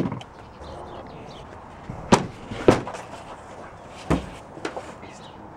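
Four sharp knocks and thumps in two pairs, each pair about half a second apart, over a steady low background hiss. This fits doors being shut and gear being loaded into a truck.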